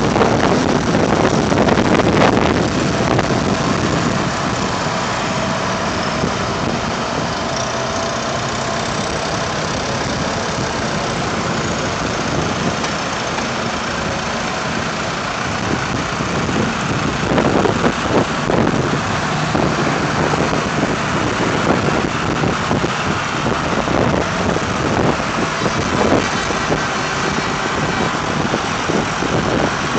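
Vintage tractor engines running as tractors drive past, a steady engine sound that swells louder as they pass, most clearly about halfway through and again near the end.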